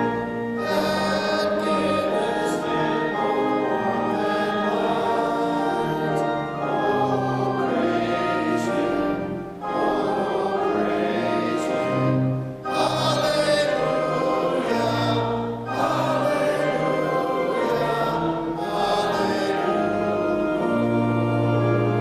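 Congregation and choir singing a hymn with organ accompaniment, in long held phrases with brief breaks between them.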